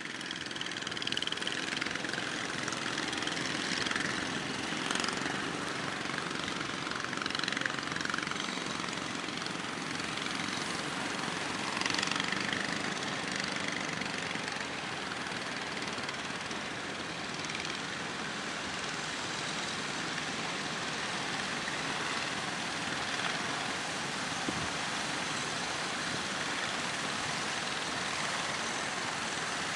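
Small fishing boats' engines running steadily over a continuous rush of wind and surf.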